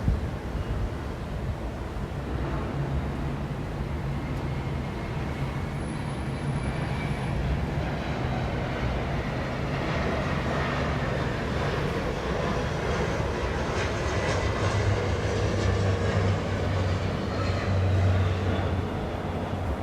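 Downtown city traffic: a heavy vehicle's low engine hum swells and passes, louder in the second half, over the steady rush of the street.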